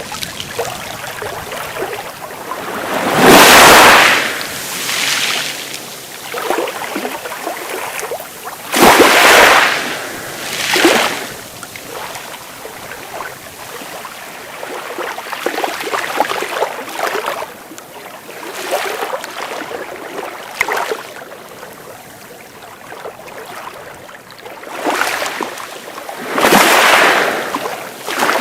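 Sea waves breaking and washing up the shore in surges every few seconds, over a steady wash. The loudest break about three seconds in, around nine seconds and near the end.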